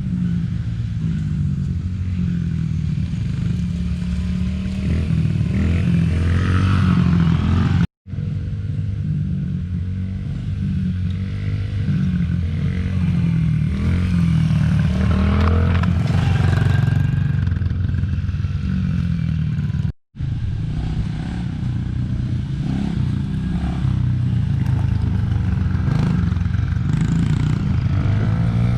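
Dirt bike engine running and revving, its pitch repeatedly rising and falling as the throttle is opened and shifted through. The sound cuts out for an instant twice, once about 8 seconds in and once about 20 seconds in, where one clip ends and the next begins.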